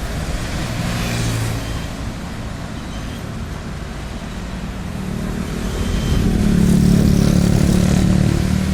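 Diesel engine running steadily, then revving up and getting louder from about six seconds in.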